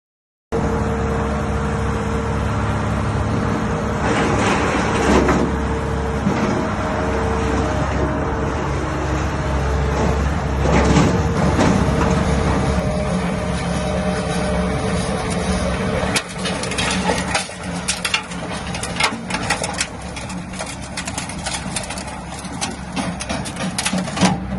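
Skid steer engine running steadily with a snow blower attachment driven from it, with surges of noise in the first half. In the latter part the engine sound drops a little and a dense crackle of rapid clicks and knocks runs over it.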